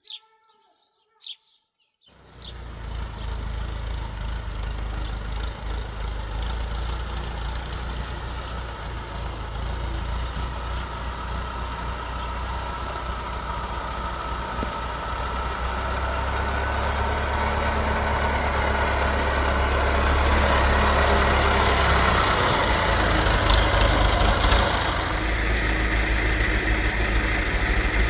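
Two short bird chirps, then a motor engine comes in suddenly about two seconds in and runs steadily with a low hum, slowly growing louder.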